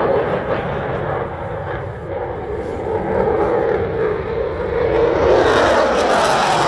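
F-16 fighter jet's single turbofan engine heard in flight as a continuous rushing jet noise, growing louder and brighter toward the end as the jet comes closer.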